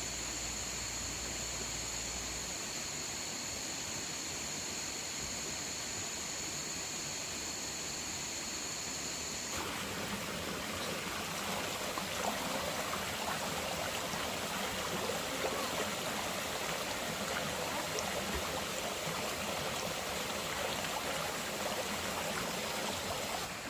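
Running water, like a stream, with a steady hiss. Over the first ten seconds two steady high tones sit above it, then there is an abrupt change to louder, busier water with fine crackling and splashing.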